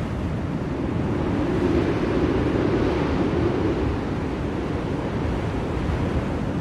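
Blizzard wind blowing steadily, a deep rushing noise that swells briefly about two seconds in and then eases.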